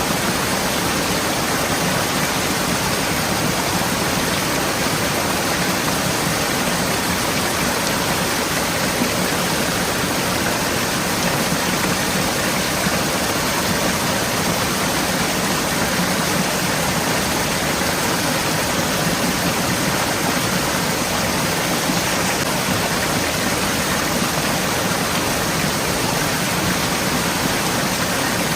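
Forest stream flowing, a steady rush of water with no breaks.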